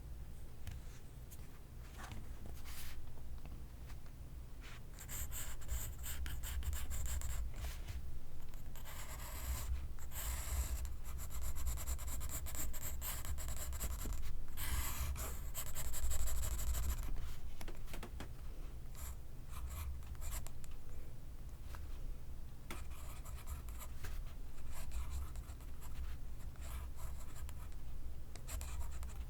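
Pencil scratching on paper in quick, uneven strokes of writing or doodling, busiest in a couple of stretches in the middle.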